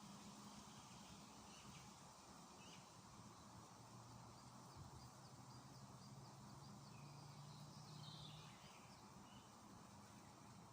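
Faint songbirds chirping, with a quick high trill about halfway through, over a steady low background hum.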